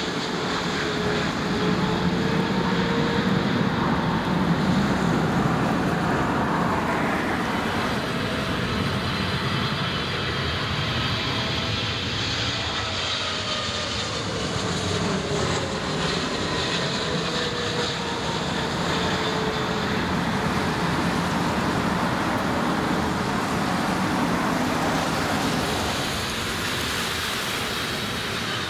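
Jet airliner engines: a steady rumble with whining tones that slowly slide in pitch.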